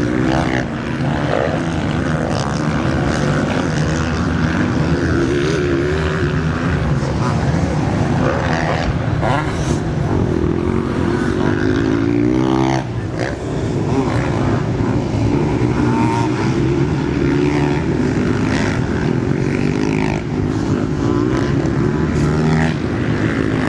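Several motocross bikes racing, their engines revving up and down through the gears as the pitch rises and falls. About halfway through, one bike revs up sharply close by.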